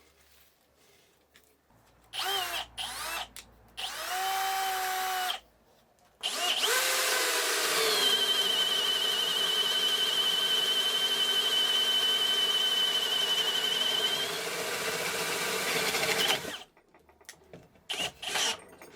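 Bosch GSR 185-Li 18 V cordless drill/driver motor running in two short trigger bursts, then one long run of about ten seconds. In the long run the pitch rises as it speeds up, holds a steady high whine, and stops abruptly.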